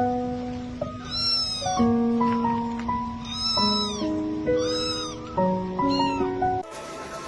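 A cat meowing four times over background music of held, stepping notes; the first three meows are drawn out and the last is short. The music cuts off near the end.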